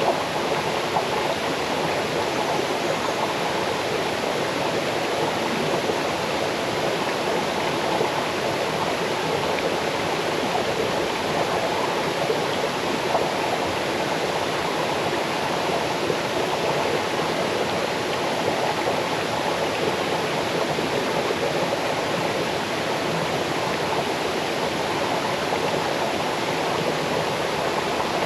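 Small waterfall cascading over rocks into a stream: a steady, even rush of falling and splashing water.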